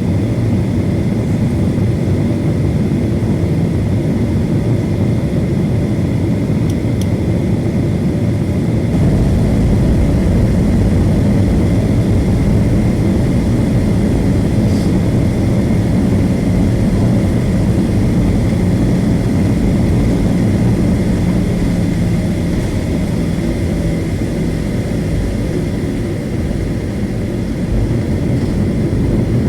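Jet engines of a Southwest Airlines Boeing 737 running steadily and loudly, with a dense low rumble and a faint steady whine above it. The low rumble grows heavier about nine seconds in.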